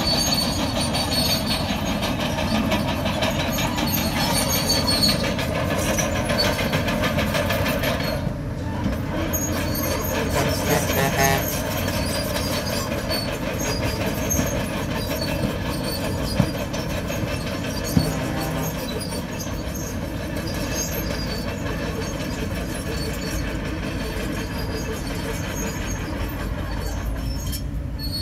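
Crawler bulldozer working, its diesel engine running steadily while the steel track links clank and squeal without a break, with a few sharp knocks along the way.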